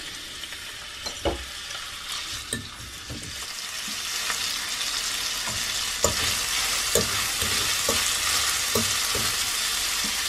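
Strips of chicken thigh sizzling in hot oil in a stainless steel pan, with a metal fork knocking and scraping against the pan as they are stirred. The sizzle gets louder about four seconds in.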